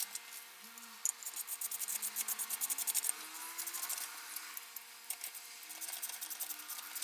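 Rapid back-and-forth abrasive rubbing strokes by hand, several a second, coming in spells: a pause in the first second, a fast run of strokes to about three seconds in, then quieter, lighter strokes toward the end.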